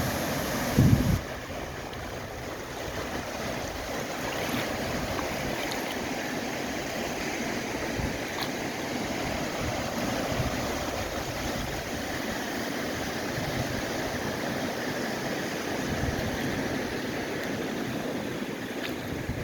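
Steady rushing water noise, with a loud buffet of wind on the microphone in the first second.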